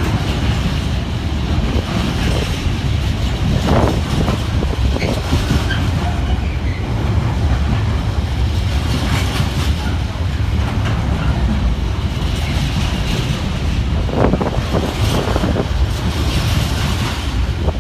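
A train rolling through a station: a steady, loud low rumble of wheels on rails, with a few sharp knocks.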